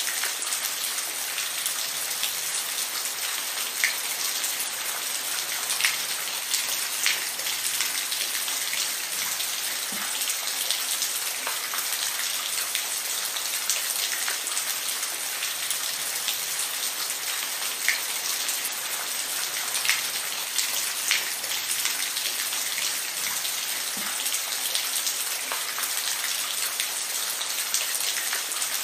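Steady rain falling, with individual drops ticking on a surface here and there.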